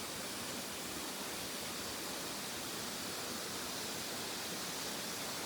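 Steady, even rushing noise of an outdoor natural setting, with no distinct calls or events.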